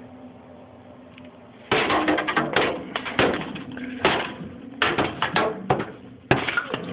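Hammer striking and cracking ice inside a refrigerator: a quick, irregular run of sharp blows and crunching cracks. It starts after nearly two seconds of quiet in which only a steady low hum is heard.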